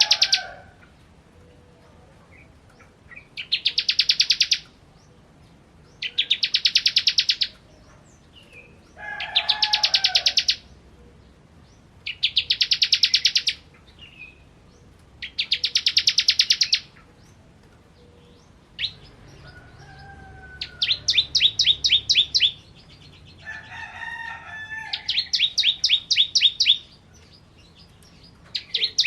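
Bar-winged prinia (ciblek) singing: bursts of fast, high, buzzy trilling, each about a second and a half long, repeated roughly every three seconds. Past the middle the trill slows into more distinct, separate notes.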